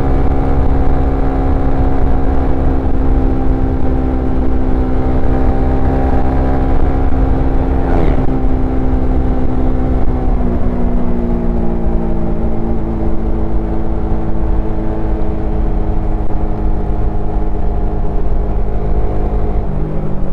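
Suzuki Satria FU FI's single-cylinder four-stroke engine and exhaust running steadily under way. Its pitch holds for the first half, then eases slowly lower, with a small step down near the end. A brief whoosh comes about eight seconds in.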